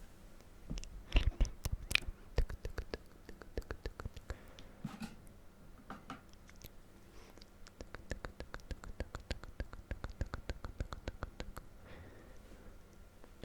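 Close-miked ASMR trigger sounds: rapid clicking and scratching, several clicks a second, with a few louder ones about a second in.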